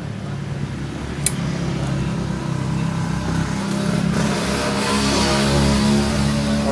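Kawasaki Ninja R/RR two-stroke single-cylinder engine running, the revs and noise rising after a few seconds. A sharp click sounds about a second in.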